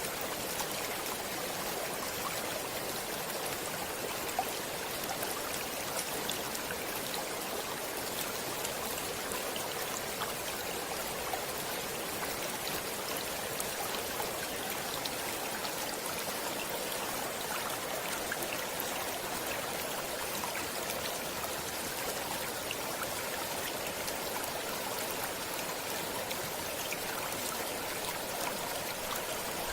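Stream water flowing steadily: an even rush of water with many small splashes throughout.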